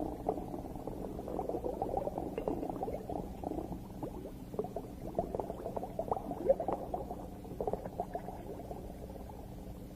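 Underwater ambience of dense bubbling and gurgling: a steady crackle of many small pops, all fairly low in pitch.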